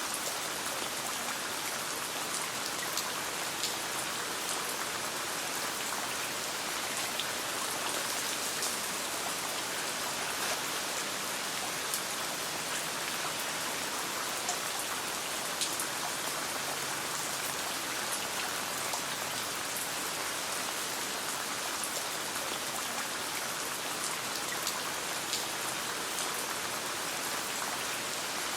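Steady rain falling: a dense, even hiss with many scattered sharp ticks.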